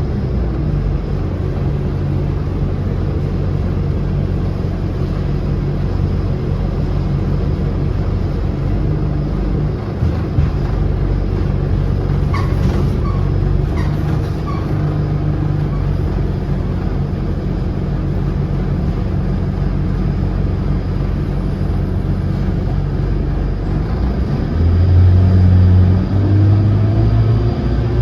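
City bus engine running as the bus drives along, a steady low hum heard from inside the bus, growing louder near the end as it pulls harder.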